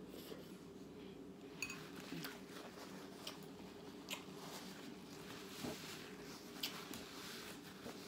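Person chewing steak close to the microphone, with several sharp wet clicks of the mouth over a steady low hum.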